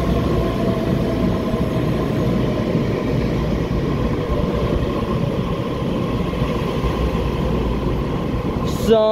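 TRA EMU3000 electric intercity train running along an underground station platform: steady rumble of wheels on rail with a faint motor whine that slowly falls in pitch. A sharp click comes just before the end, followed by a falling tone.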